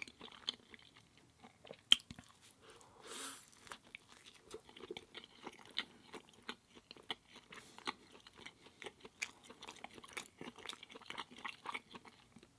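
A person chewing food with the mouth close to the microphone: a steady run of small, irregular wet mouth clicks, with one sharp click about two seconds in.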